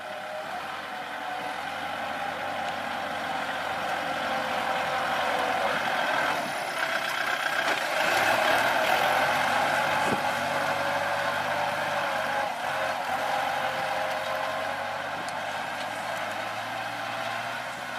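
Kubota L4708 tractor's diesel engine running steadily as it works, growing louder toward the middle and easing off again near the end.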